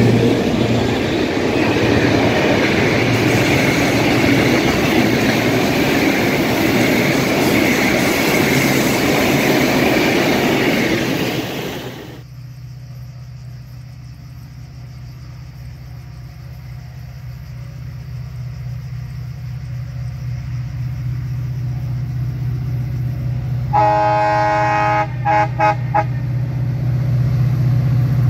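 A train running past with loud, even rail and wheel noise, which cuts off abruptly partway through. A diesel train's engine hum then grows louder as it approaches, and its horn sounds near the end: one blast followed by several short toots.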